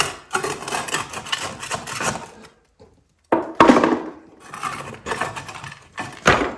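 Scraping and knocking of a hand tool against old terracotta floor tiles and sand, in irregular strokes, breaking off for under a second near the middle.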